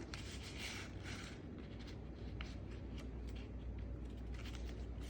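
A sheet of paper being flipped over and folded by hand: soft rustling in the first second or so, then scattered light crinkles and creasing clicks, over a low steady hum.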